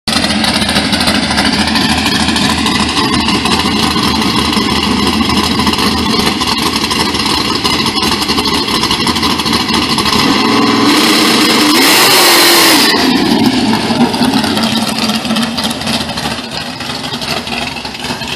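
A naturally aspirated V8 drag-car engine in a 1967 Camaro, running steadily and loudly. It gets a little louder about eleven seconds in, with a short hiss over it, then eases off toward the end.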